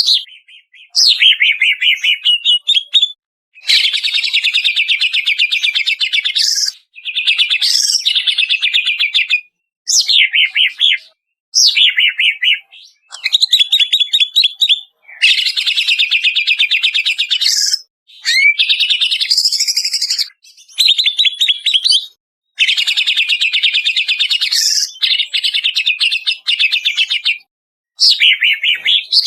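Cucak ijo (green leafbird) singing loudly in repeated phrases of one to three seconds, separated by short pauses. Each phrase is a fast trill of rapidly repeated notes, many opening with a quick falling whistle, with one more varied, swooping phrase about two-thirds of the way through.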